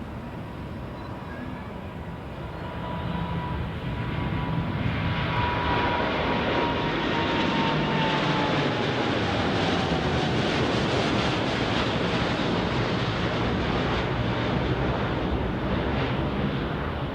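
Boeing 787-9 airliner's two jet engines at takeoff power, the noise swelling about three seconds in and then staying loud and steady. A thin whine slides slightly down in pitch as the aircraft passes.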